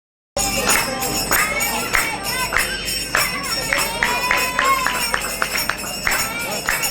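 Kirtan: voices chanting a devotional melody to a steady beat of small metal hand cymbals, starting just after the beginning.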